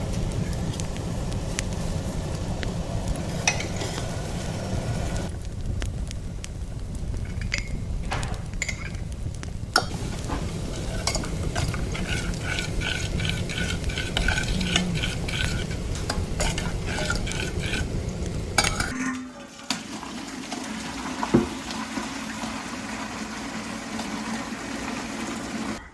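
Kitchen cooking sounds: food sizzling and being stirred in a pan, with utensils and pots clinking. A steady sizzle runs through most of the clip and drops away about three-quarters of the way in. A run of even, repeated stirring strokes comes in the middle.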